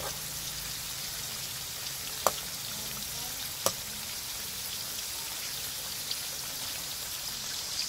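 Bullfrog pieces frying in hot oil in a wok: a steady sizzle, with two sharp clicks a little past two and three and a half seconds in.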